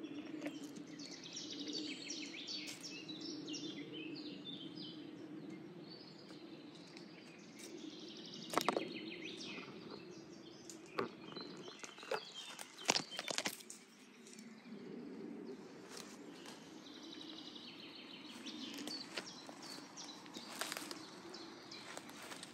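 Songbirds singing in woodland, in repeated high chirping phrases, over a low steady hum. A few sharp snaps and clicks stand out, the loudest about a third and halfway through, from the forager moving and handling things in the undergrowth.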